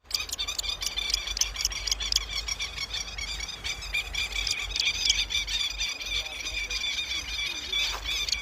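Several red-wattled lapwings calling over and over, their sharp, shrill calls overlapping in a dense chorus, typical of the alarm calls of a flock near its chick.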